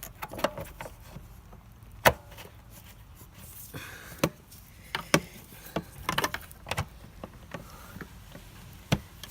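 Hose being fitted to a Hoover Dustmanager upright vacuum by hand: scattered plastic clicks and knocks, with one sharper knock about two seconds in. The vacuum is not running.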